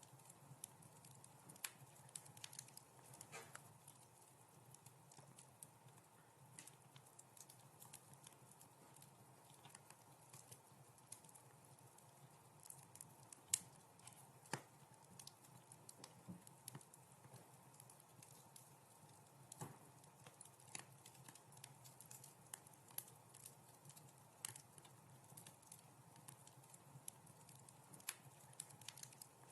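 Wood fire crackling in a fireplace: faint, irregular snaps and pops over a steady low background, with one sharper pop about halfway through.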